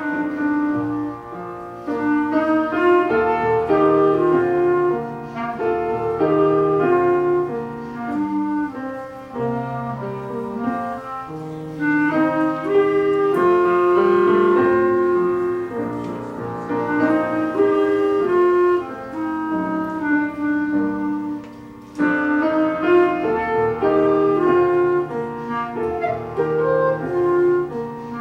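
Clarinet playing a lyrical melody over piano accompaniment, the notes held and moving in phrases; a short lull about 22 seconds in gives way to a loud new phrase.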